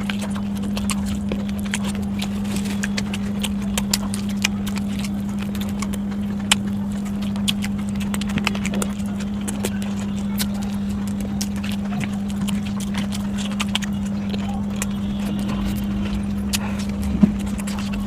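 Close-miked eating: irregular wet clicks and crunches of chewing, with a few sharper taps, over a steady low hum.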